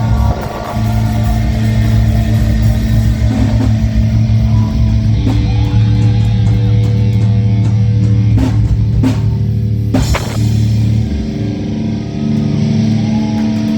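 Live rock band playing loud: long held guitar and bass notes, with a few sharp drum hits about two-thirds of the way through.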